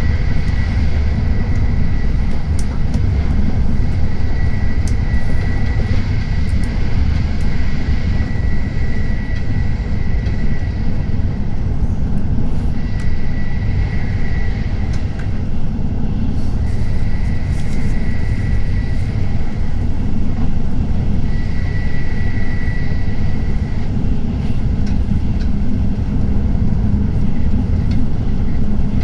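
Tokaido Shinkansen train running at speed, heard from inside the passenger car: a steady low rumble and rush, with a thin high whine that comes and goes every few seconds.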